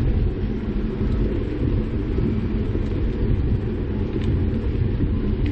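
Wind buffeting the microphone of a camera carried on a moving bicycle, a steady low rumble mixed with road noise from the ride.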